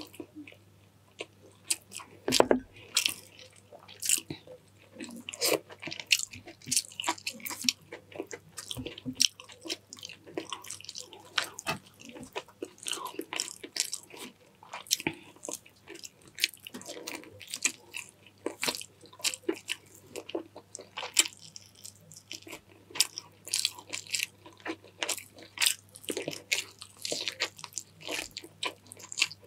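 Close-up eating sounds: a person chewing and biting chicken stewed in coconut milk with rice, with many irregular sharp clicks and crunches. A faint steady low hum runs underneath.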